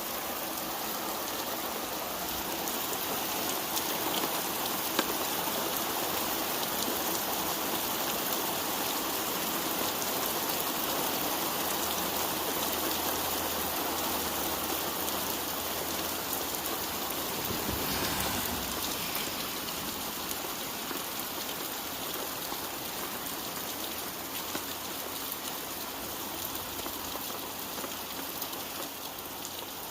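Heavy rain pouring down in a steady, dense hiss of drops, easing slightly over the last third.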